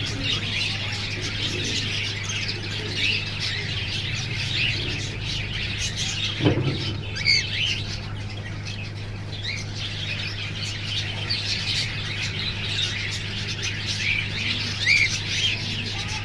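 A flock of birds chirping and squawking at once, a dense chatter of many short overlapping calls, over a steady low hum. A single low thump about six and a half seconds in.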